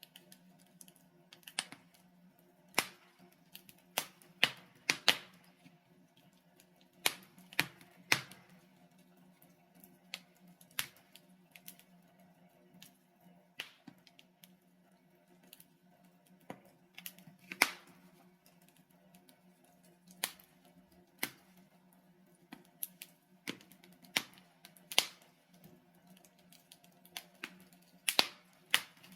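Wood logs burning in a fireplace, crackling with irregular sharp pops and snaps, roughly one a second, over a faint steady low background.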